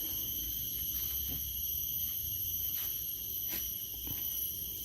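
A chorus of insects keeps up a steady high-pitched drone, with a few faint clicks and a low rumble underneath.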